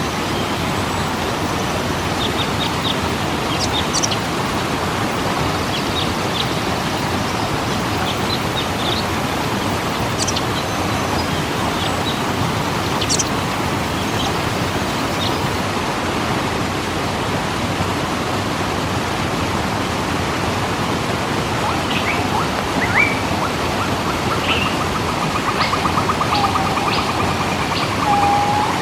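Waterfall rushing steadily, with small birds chirping over it. In the second half a bird gives a fast trill, and a few lower slurred whistles come near the end.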